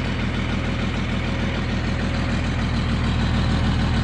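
Truck engine idling steadily, still cold, just after a cold start.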